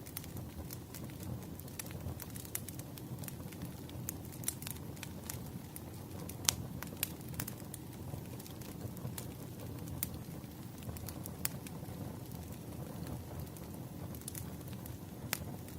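Fireplace fire burning with a steady low rumble and irregular sharp crackles and pops, one louder pop about six and a half seconds in.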